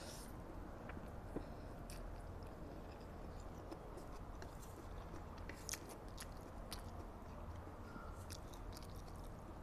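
Close-miked mouth sounds of a person chewing spicy instant fried noodles, with scattered short wet clicks and smacks, two of them louder about one and a half and six seconds in.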